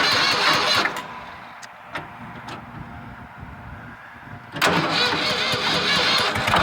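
Starter cranking the 1970 Ford 4400 tractor's three-cylinder gas engine in two tries. The cranking stops about a second in, a few clicks sound in the pause, and the cranking resumes about four and a half seconds in.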